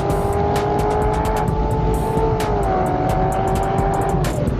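Chevrolet Corvette C7 Z06's supercharged V8 running at highway speed, heard under background music with a steady beat.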